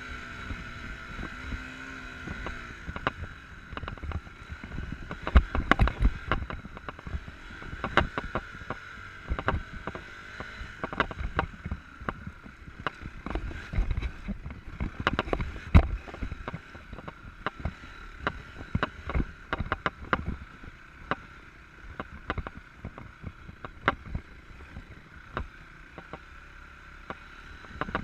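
Enduro motorcycle engine running, with a steady whine throughout and many irregular knocks and clatters from riding over rough ground. The engine's pitch is clearest for the first couple of seconds, before the knocks take over.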